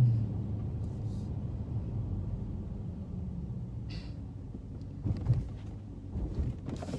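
Car engine heard from inside the cabin. Its revs drop at the start, then it runs at a low, steady rumble, with a few light knocks.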